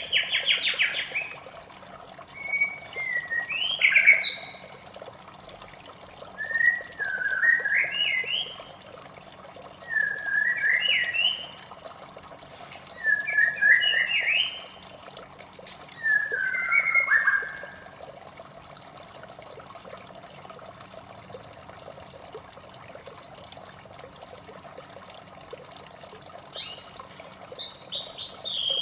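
White-rumped shama singing short whistled, sliding phrases, one every few seconds, then falling silent for several seconds before starting again near the end. Under it runs a steady trickle of running water.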